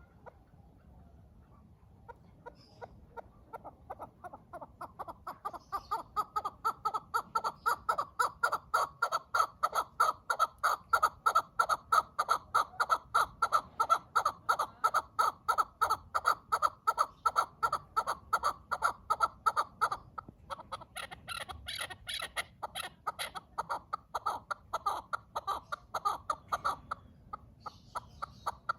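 Chukar partridge calling a long run of rapid clucking chuk notes, about three a second, building in loudness over the first few seconds. After a brief break about two-thirds through, the notes go on a little quieter.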